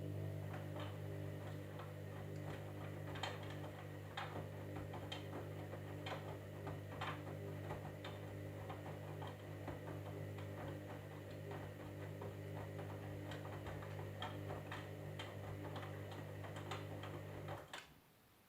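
Candy washing machine running with a steady, even hum and frequent light ticks and clicks over it; the hum cuts off suddenly near the end.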